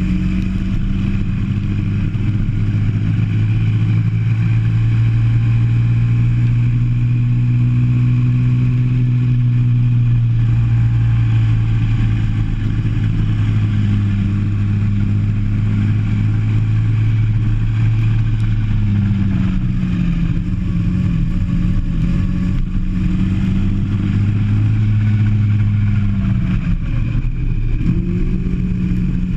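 Go-kart engine heard onboard at speed, its note holding steady for long stretches and dipping briefly in the middle. Near the end it drops sharply as the kart slows, then climbs again under acceleration.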